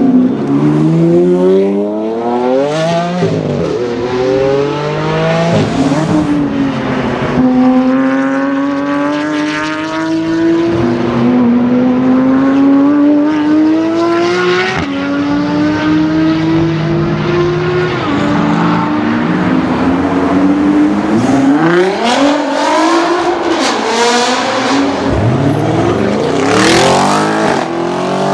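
Sports car engine accelerating hard through the gears. Its pitch climbs steadily, then drops sharply at each upshift, about five times. Near the end the revs rise quickly again in a few short climbs.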